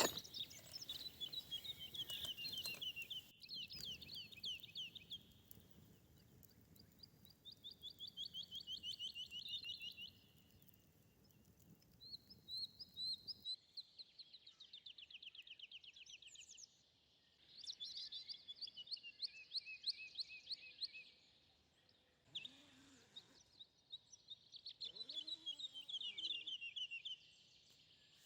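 A songbird singing, repeating a rapid trilled phrase of about two seconds every few seconds.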